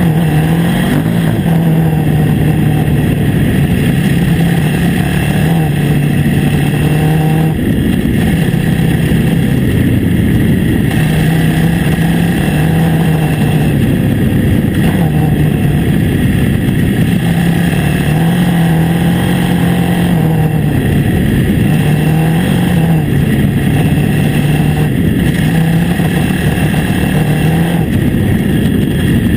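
A KTM 950 Adventure S's V-twin engine pulls at a steady riding pace, its note rising and dipping a little now and then as the throttle is eased on and off. A steady rush of noise runs under it.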